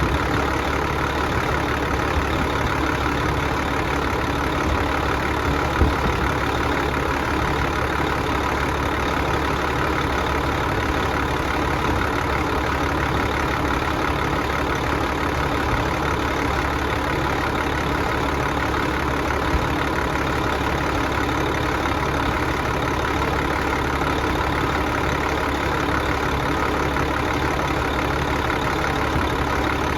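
An engine idling steadily, with one brief sharp knock about six seconds in.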